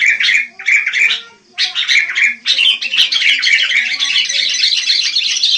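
Sooty-headed bulbuls (kutilang) calling: a few short bursts of chattering calls with brief gaps, then a continuous run of chatter from about halfway.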